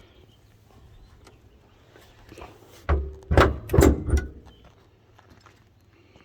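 Car door being opened and shut: a quick cluster of about four heavy thuds and clunks.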